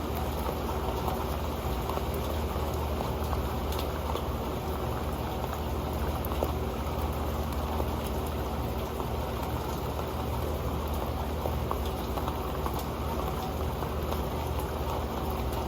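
Rain falling steadily on an old pan: a dense, even patter of drops, with occasional sharper single drop hits on the pan.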